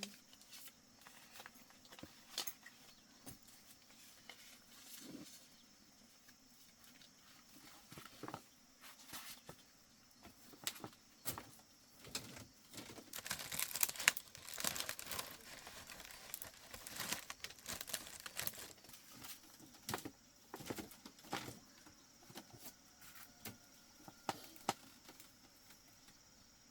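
Paper-money rustle: Vietnamese banknotes crinkling and rustling in the hands as they are counted and put away, in scattered light crackles that come thickest around the middle. A faint, steady, high chirring of insects runs underneath.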